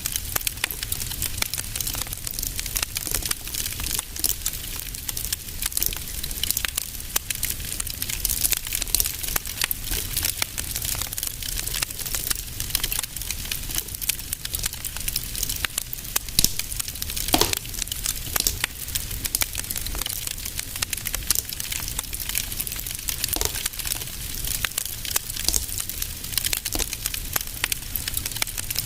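Fire in a fireplace crackling steadily, with dense small crackles over a low rumble and one louder pop about two-thirds of the way through.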